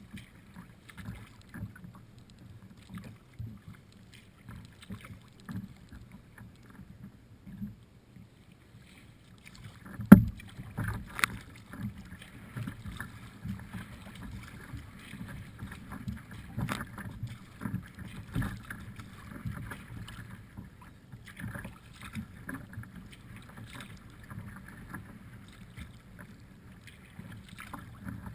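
Kayak out on the water: paddling and water sounds with small irregular splashes and knocks. A sharp knock about ten seconds in is the loudest sound, followed by a smaller one about a second later.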